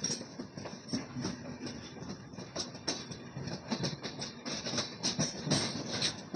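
Passenger train coach running along the track: a steady rumble with frequent irregular clicks and clatter of the wheels over rail joints.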